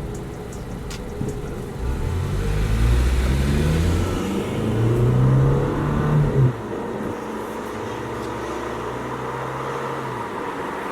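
2019 Toyota Camry XSE engine accelerating hard, rising in pitch twice from about two seconds in as it pulls through the gears, then the revs drop abruptly and it runs on steadily. Wind rushes in through the open window.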